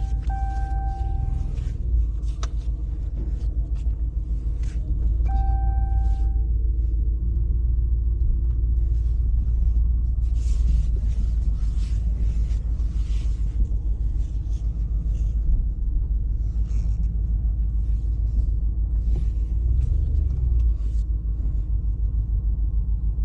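Truck engine running with a low, steady rumble. A steady high tone sounds twice: once in the first second and a half, and again at about five seconds.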